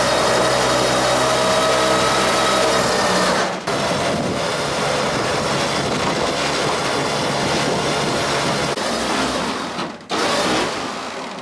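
Tow truck machinery running steadily with a strong whine while the car is loaded on, breaking off sharply for a moment about three and a half seconds in and again near ten seconds.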